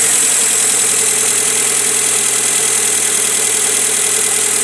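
Car engine idling steadily with one cylinder dead from a failed ignition coil: a misfire that makes the engine run rough and shake.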